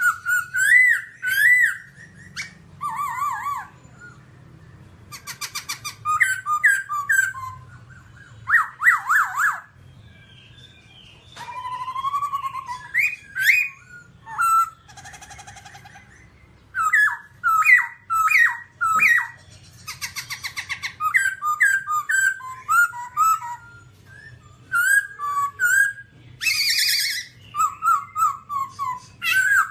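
Black-throated laughingthrush (khướu bạc má) singing a long, varied song of loud, clear whistled phrases, each a quick run of notes sweeping up and down, with short pauses between phrases. A faint steady low hum lies underneath.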